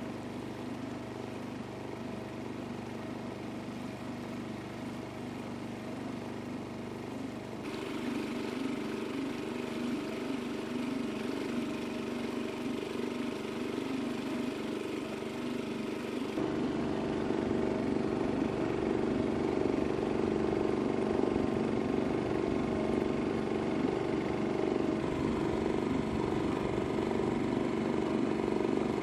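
A small boat engine runs steadily with a steady hum. Its sound changes abruptly twice, about a quarter and about halfway through, getting louder each time.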